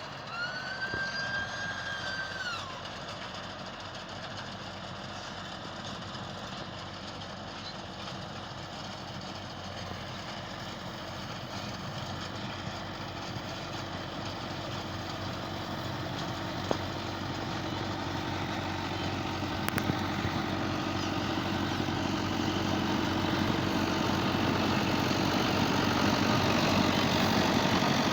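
Tractor engine running steadily while it pulls a reaper binder cutting wheat, getting gradually louder. A brief whistle-like high tone sounds for about two seconds near the start.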